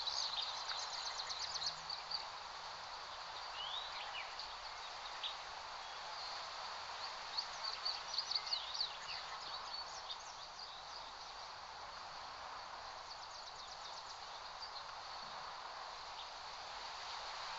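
Steady breeze rustling through grass, with small birds chirping and trilling in short high bursts over it a few times.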